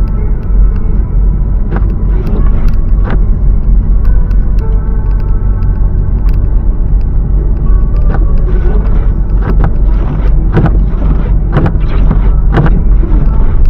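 Car driving on a snowy road: a loud, steady low rumble of road and engine noise, broken by several short knocks and thumps from the car riding over bumps.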